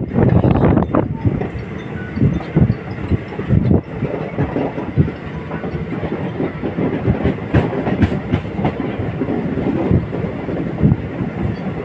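Passenger train running at speed, heard from inside a moving coach: a steady rumble of wheels on the track with irregular clicks and knocks.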